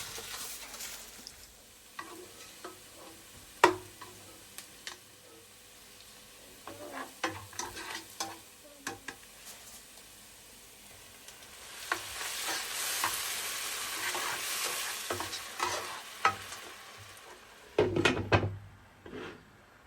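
Food cooking in a pan: a utensil stirring with scattered clicks and knocks against the pan, and a steady sizzle that rises about twelve seconds in and lasts some five seconds. Several louder knocks come together near the end.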